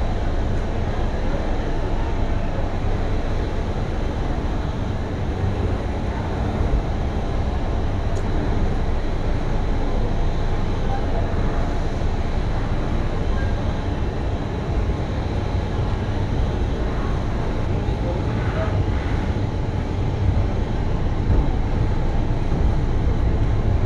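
Passenger train coach moving slowly out of a station, heard from its open door: a steady low rumble of wheels and running gear.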